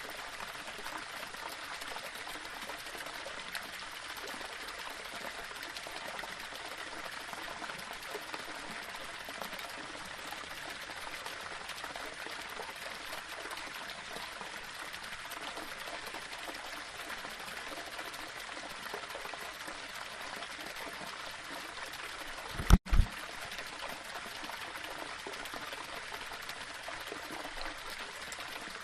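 Small waterfall: water running and splashing steadily over rocks. About three-quarters of the way through, a brief low double thump stands out, with a split-second dropout.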